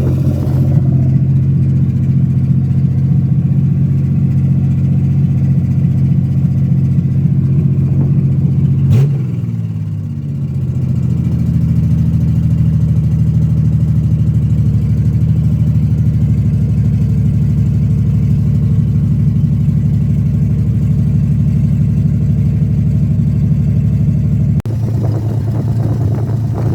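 Car engine idling loudly through open, cut-off exhaust extractors. About nine seconds in its speed drops quickly to a lower, steady idle. It may carry a slight pop, which the owner blames on a bad distributor cap.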